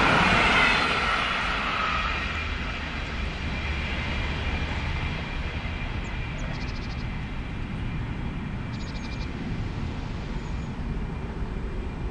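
Stadler GTW articulated railcar passing at speed on snowy track: a rushing hiss and rumble, loudest at first, then easing to a steady lower rumble, with two brief runs of faint clicking from the wheels near the middle.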